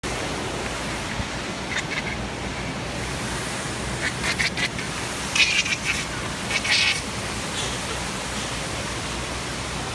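Short, high-pitched squeals of delight, a few in quick succession through the middle, over the steady rushing splash of a large fountain.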